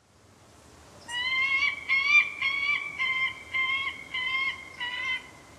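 White-tailed eagle calling: a series of about seven short, high yelping notes, roughly two a second, over faint background hiss.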